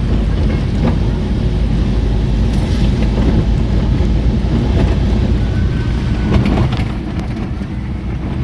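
Vehicle driving along a bumpy unpaved farm road: a steady low rumble of engine and tyres, with a few brief knocks and rattles as it goes over the rough surface.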